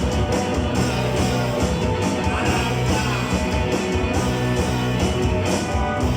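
Rock band playing live, electric guitar to the fore, loud and steady.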